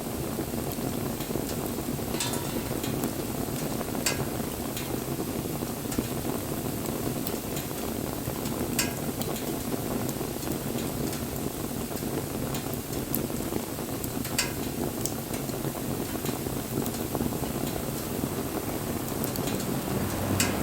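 Wood bonfire burning with a steady crackle and a sharp pop every few seconds.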